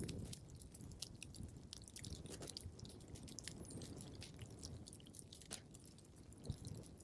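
Fireplace fire crackling: irregular small snaps and pops over a soft low rumble, with a sharper pop about a second in and another near the end.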